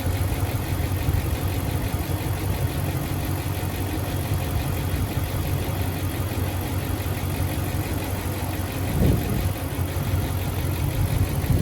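Dodge Ram Hemi V8 idling steadily, its lifter noise easing and getting better as the engine warms up.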